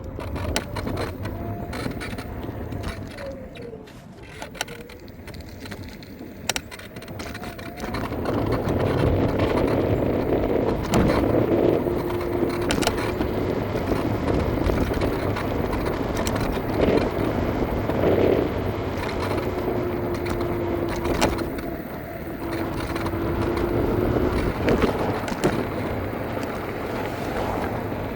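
Electric scooter riding: a steady rumble from the tyres and wind, with scattered clicks and rattles and a thin motor whine that comes and goes. It gets louder about eight seconds in.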